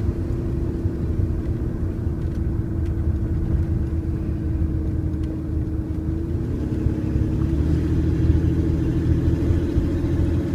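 Car engine and road rumble running steadily, with a shift in engine pitch about seven seconds in.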